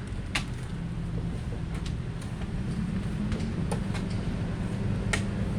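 Truck engine running low and steady, growing a little louder about halfway through, with scattered sharp clanks and scrapes of shovels as soil is unloaded by hand from the truck bed.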